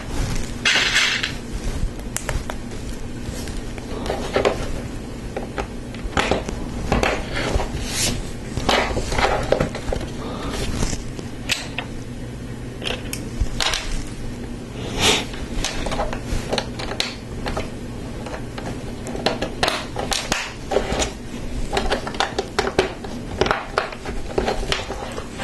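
Lego Technic plastic parts clicking and clattering by hand: irregular sharp clicks as pins and lift arms are handled and snapped together, with a brief rustle about a second in. A steady low hum runs underneath.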